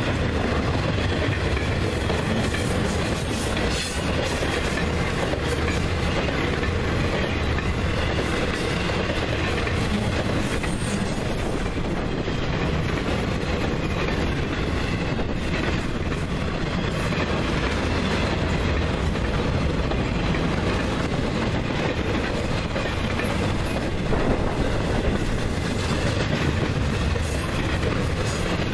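Intermodal freight train cars rolling past: a steady, loud rumble of steel wheels on rail with clickety-clack over the rail joints.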